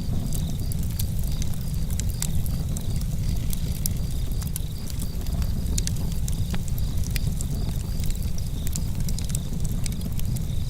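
Campfire crackling: frequent irregular sharp pops and snaps over a steady low rumble of the burning fire.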